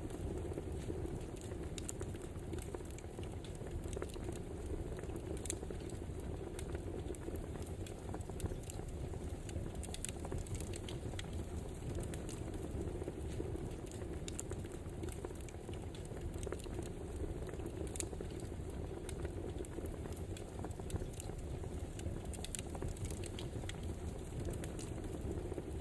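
Crackling wood fire: irregular sharp pops and snaps over a steady low rush of burning.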